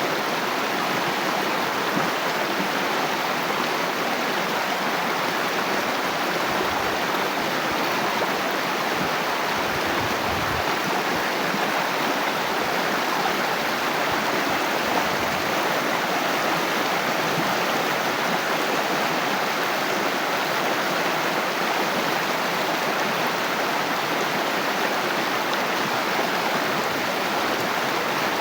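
Water flowing steadily: a continuous, even rushing with no breaks.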